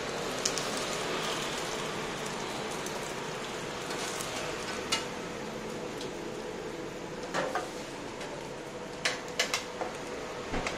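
Pan-fried buns (shengjian bao) sizzling steadily in oil on a large round griddle, with a faint steady hum underneath. Metal tongs click against the griddle and a steel tray a few times, mostly in the second half.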